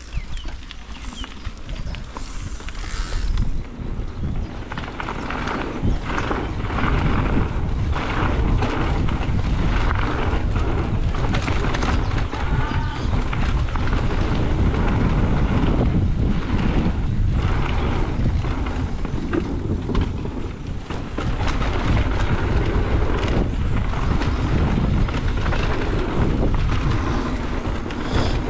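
Mountain bike riding fast down a dirt trail: wind buffeting the microphone and tyres rolling over the dirt, with frequent clattering knocks over bumps. The noise builds over the first few seconds as the bike picks up speed, then stays loud.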